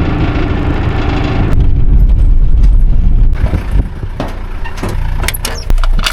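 A vehicle driving, its engine a steady low rumble. A broad rushing noise in the first second or so gives way to a run of sharp clicks and rattles in the second half.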